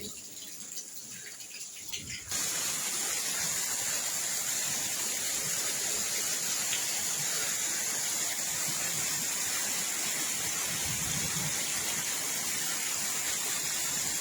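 Steady rush of water, starting abruptly about two seconds in and holding even.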